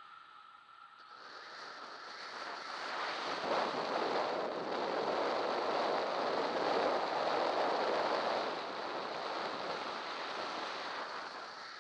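Wind rushing over the camera microphone of a bicycle on a fast downhill descent, swelling for several seconds and then easing off a little.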